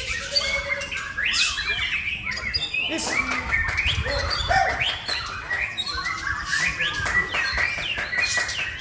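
Male white-rumped shama (murai batu) singing a continuous, rapidly changing song of whistles, trills and chattering notes.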